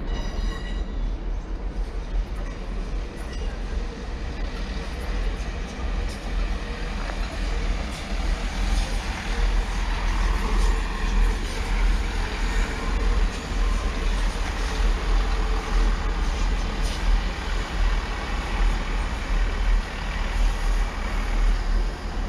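Diesel passenger train at the platform, its engines running with a steady noise and a strong low hum.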